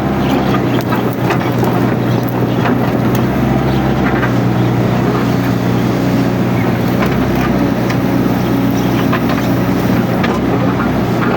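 Mini excavator's diesel engine running steadily under work, with scattered sharp clicks and cracks over it.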